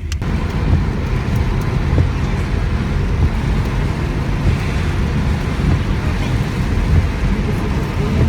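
Car driving, a steady low road and engine rumble heard from inside the cabin.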